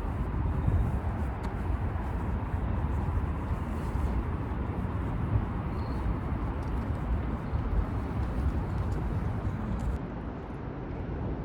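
Steady outdoor background noise, heaviest in the low end, with no distinct single event; it eases slightly near the end.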